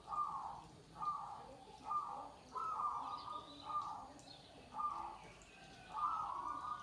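Zebra dove (perkutut) cooing: a series of short, repeated cooing phrases, a new one starting about once a second.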